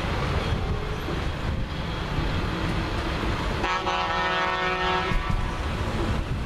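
A vehicle horn sounds one steady blast, about a second and a half long, a little past the middle, over a steady low rumble and wind noise on the microphone.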